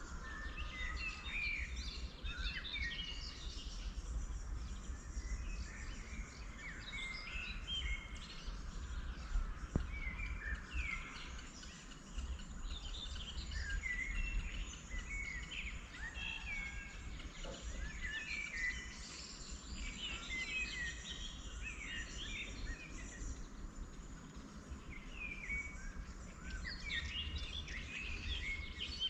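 Several small wild birds chirping and singing in short, overlapping phrases, over a steady low rumble. A single sharp click about ten seconds in.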